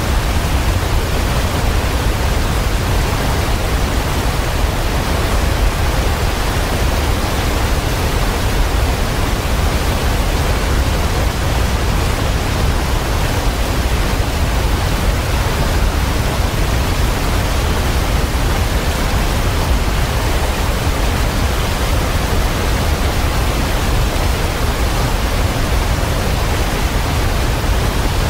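Waterfall: water falling and rushing in a steady, unbroken roar, with a strong deep rumble underneath.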